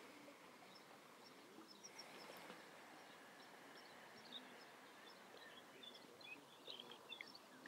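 Near silence: faint outdoor background with a few scattered, short, high bird chirps, more of them near the end.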